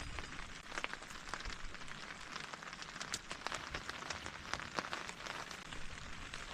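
Steady rain falling on a tent, with many individual drops striking close by as sharp taps over the continuous patter.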